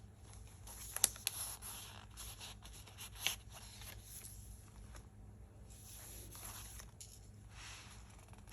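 Paper pages and pockets of a handmade journal being handled and turned, rustling softly, with a few sharp clicks and taps about a second in and again about three seconds in.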